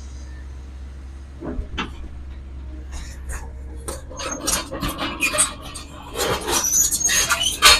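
Hitachi Zaxis 210 excavator's four-cylinder diesel engine running with a steady low hum. Scattered knocks give way, from about three seconds in, to a quickening series of metallic clanks and rattles, loudest near the end.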